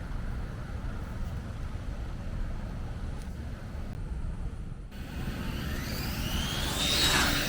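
Steady low outdoor rumble, then about five seconds in an electric RC drag car's motor whine that rises quickly in pitch as the car accelerates down the strip, loudest near the end.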